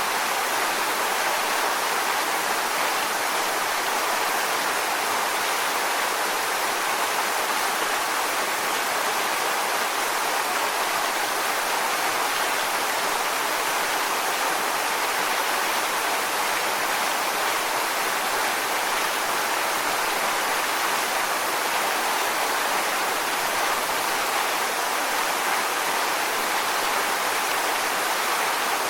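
Waterfall: water falling and splashing in an even, unbroken hiss that holds steady throughout.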